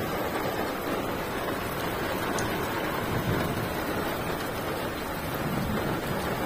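Heavy rain falling steadily in a thunderstorm, an even, unbroken downpour.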